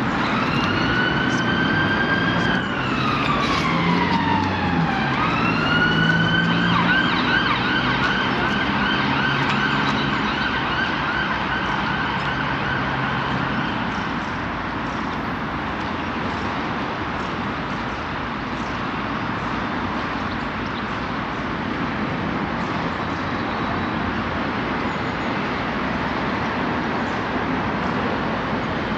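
Electric train's traction motor whine: the pitch rises, dips, rises again and then holds steady over a low hum. About fourteen seconds in it gives way to a steady rushing noise of the train running.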